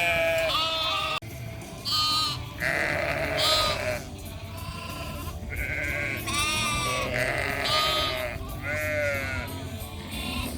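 Many lambs bleating loudly, one call after another and overlapping, several with a wavering tremble. They are distressed at being separated from their mothers.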